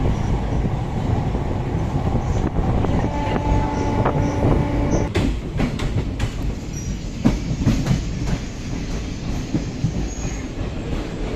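Steady rumble of a moving train, with a squealing tone held for about two seconds a few seconds in, followed by a run of sharp clicks.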